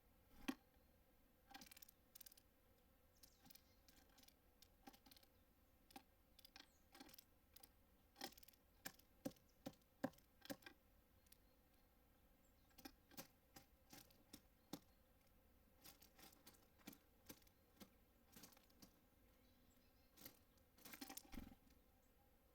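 Birds pecking and tapping at a feeder: faint, irregular sharp clicks and taps, coming in quick runs now and then.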